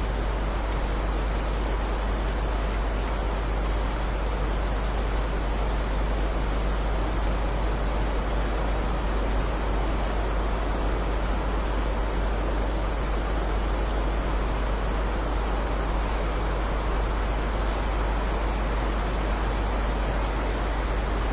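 Steady heavy rain, an even continuous hiss, with a constant deep rumble underneath.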